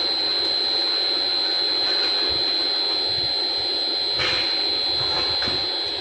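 Steady machine noise with a constant high-pitched whine, running without change.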